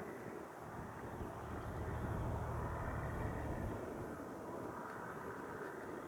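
Airplane engine at takeoff power: a steady rushing drone with a low rumble that eases off about four seconds in.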